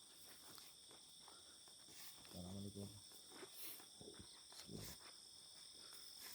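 A steady chorus of crickets and other night insects trilling in several high bands at once. A man's voice says 'Assalamualaikum' about two and a half seconds in.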